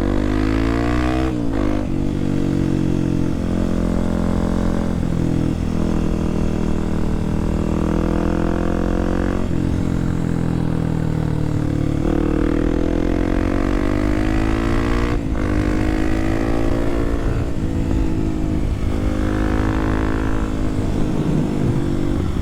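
Kawasaki KLX300SM's single-cylinder four-stroke engine pulling the bike along. The revs climb through each gear and drop sharply at the shifts, over a low rush of wind.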